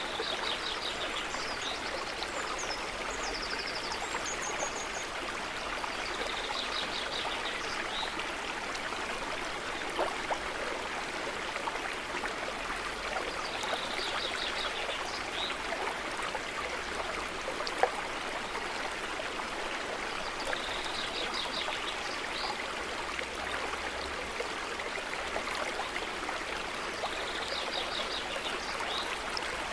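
Stream running steadily, with a songbird repeating a short, rapid run of high notes about every seven seconds. One sharp tick comes a little past halfway.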